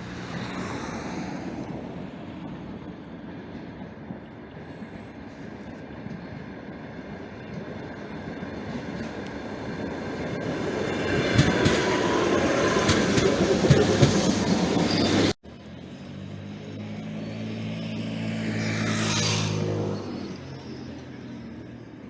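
A suburban passenger train passes on the rails, building to a loud peak with sharp wheel clicks over the rail joints, then breaks off abruptly. A second suburban train then passes with a steady low hum and running noise that rises, then fades.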